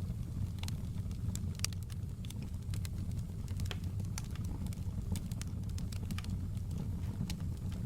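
Wood fire in a fireplace crackling: frequent sharp, irregular pops and snaps over a steady low rumble.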